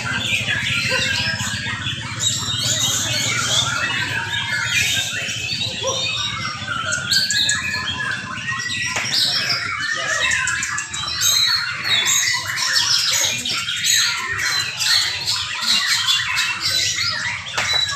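Several young white-rumped shamas singing at once, a dense, unbroken tangle of overlapping whistles, fast chatter and harsh calls.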